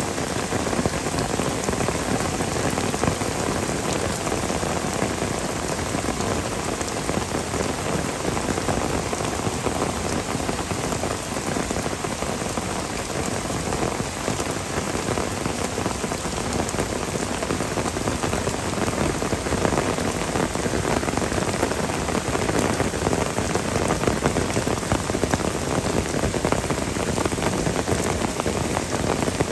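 Heavy downpour of rain falling steadily, with no let-up.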